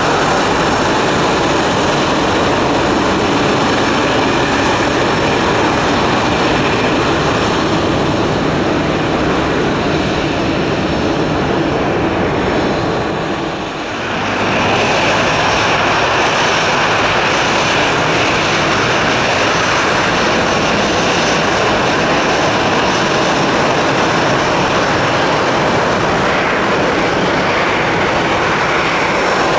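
Jet engines of Airbus narrow-body airliners (an A318, then an A319) running at taxi power, a loud steady jet noise with a faint high whine. Just before halfway it dips briefly and picks up again as a second jet passes.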